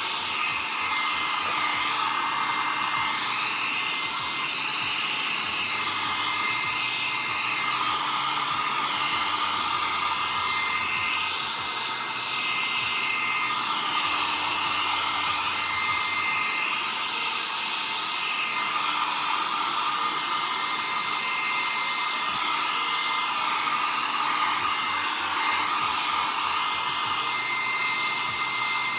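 BaByliss hair dryer running steadily, a continuous rush of air with a steady high motor whine; the airflow's hiss wavers as the dryer is moved about over the hair.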